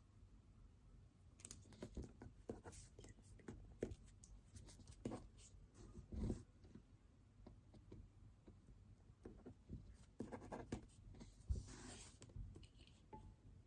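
Pen writing on paper: faint, irregular scratching strokes and light ticks, with a slightly longer scratch near the end.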